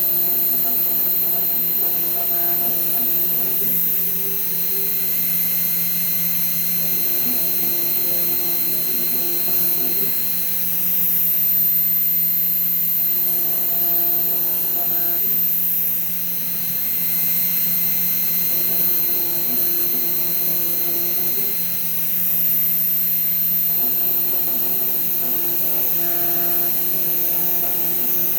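Fox Alien XE-PRO CNC router running a job: a steady spindle hum with a high whine, while the stepper motors whine in stretches of a few seconds at a time as the axes move, with short pauses between moves.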